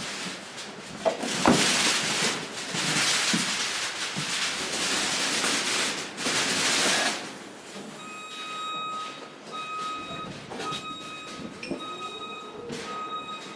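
A loud rushing hiss with a couple of sharp knocks in the first second or two lasts about seven seconds. It then gives way to a repeating electronic warning beep, sounding in on-off pulses of about a second each.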